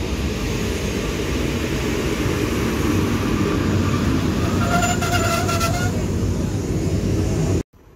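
PKP Intercity EP07 electric locomotive hauling a passenger train slowly along the platform: a steady rumble of wheels and running gear, with a brief high whining tone about five seconds in. The sound cuts off suddenly near the end.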